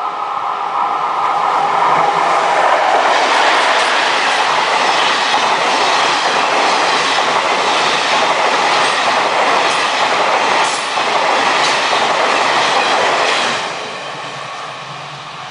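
A JR West train passing close by at a level crossing, its wheels clattering over the rail joints. It stays loud for about ten seconds, then falls away sharply near the end. The crossing's warning bell rings under it and can be heard again as the train clears.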